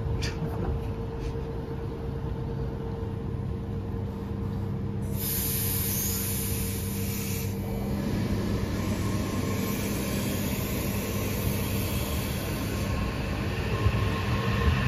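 Kawasaki M8 electric multiple unit standing at the platform with its equipment humming steadily, a hiss of air about five seconds in. Near the end it starts to pull out, with a few sharp clunks.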